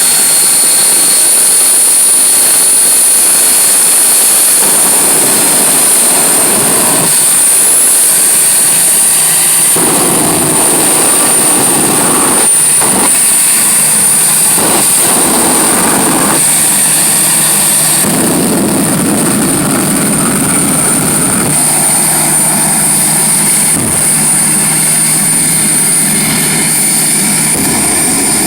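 Jet engine running with a steady high-pitched turbine whine over a loud rushing noise that swells and eases several times.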